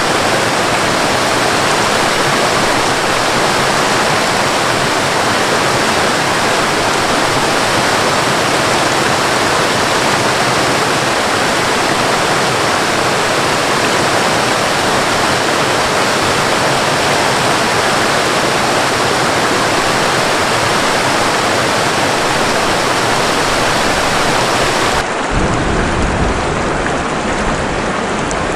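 Waterfall: a steady, even rush of falling water. Near the end it changes abruptly to rain, with a deeper rumble and without the highest hiss.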